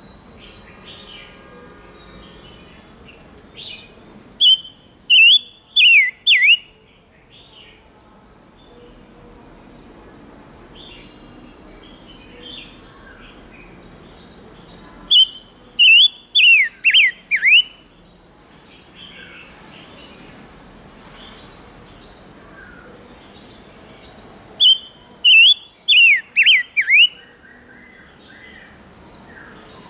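Silver-eared mesia (chim ngũ sắc) singing: three loud bursts of four or five quick, high, downward-sweeping notes, about ten seconds apart, with soft chirps between them. It is a decoy call used to lure and excite other mesias.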